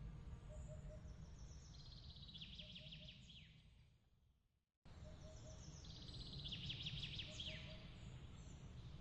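Bird trilling in a rapid series of notes that ends in a falling note, with soft repeated chirps over a low steady rumble. About halfway through the sound fades to silence, then cuts back in abruptly and the same trill comes again: a looped ambience track restarting.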